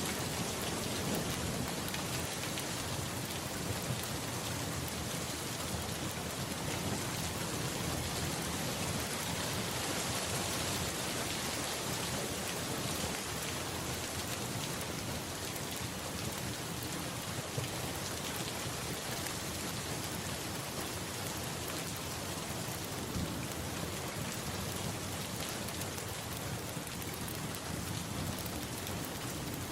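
Steady rain pouring onto surfaces, an even hiss with a few sharp ticks now and then.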